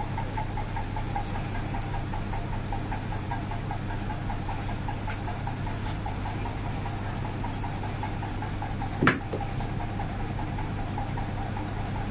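A steady mechanical hum from a running motor, with one sharp knock about nine seconds in.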